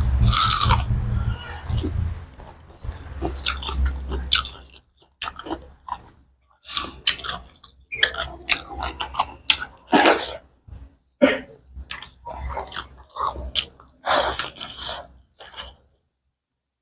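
Close-miked chewing and biting as a person eats pork curry and rice by hand: irregular mouth clicks and smacks, louder just after the start.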